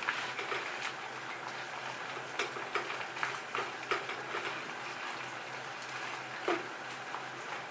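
Shrimp sizzling in a hot skillet over a gas burner: a steady frying hiss with scattered crackles, and now and then the click or scrape of a spatula stirring in the pan.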